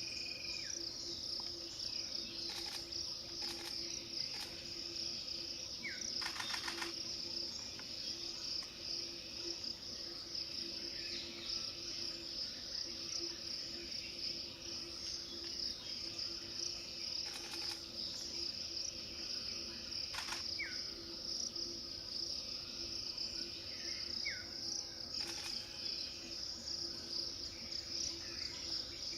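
Steady high-pitched drone of crickets or other insects, with a few faint short chirps and occasional clicks over a low steady hum.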